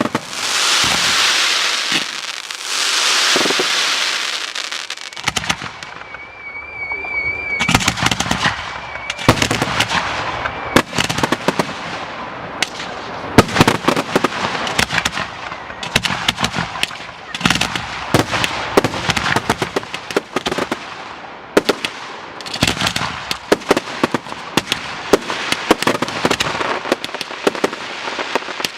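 Fireworks display: crackling, hissing effects at first, a brief warbling whistle about six seconds in, then a rapid, continuous salvo of sharp bangs and crackles.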